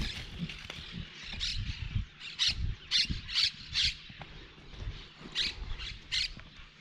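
A bird calling in short, sharp, high-pitched squawks, about a dozen in quick runs, with faint low thuds underneath.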